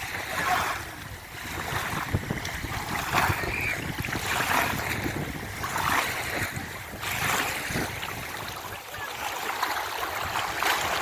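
Sea waves washing on the shore with wind buffeting the microphone. The sound rises and falls in repeated surges, with faint voices calling now and then.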